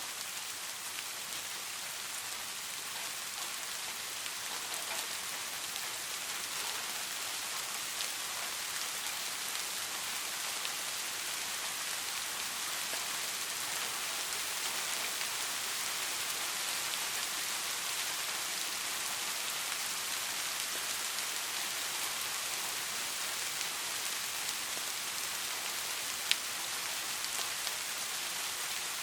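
Steady rainfall, an even hiss with scattered drop ticks, swelling slightly, and a single sharp tick a few seconds before the end.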